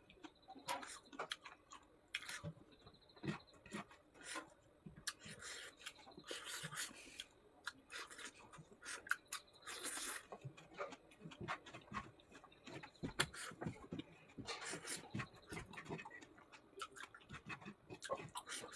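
A person chewing and eating pork with wet mouth clicks and smacks, coming in irregular short bursts.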